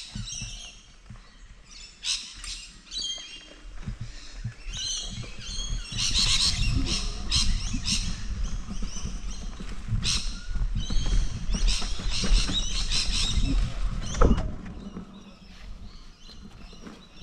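Wild birds chirping and calling again and again, with a low rumble building up in the middle and a single sharp thump about fourteen seconds in.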